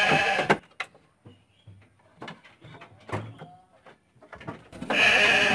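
Goats or sheep bleating: a harsh, noisy bleat fading out about half a second in and another starting about five seconds in, with scattered small knocks and clicks between.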